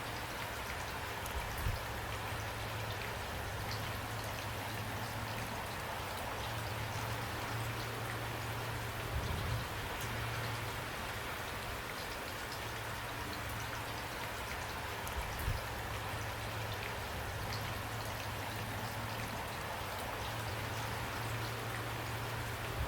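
Steady rain, with many individual drops ticking sharply over an even hiss and a low steady hum underneath.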